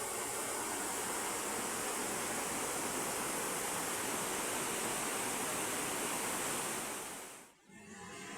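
Heavy rain falling in a steady, even hiss. It fades out briefly near the end and then comes back.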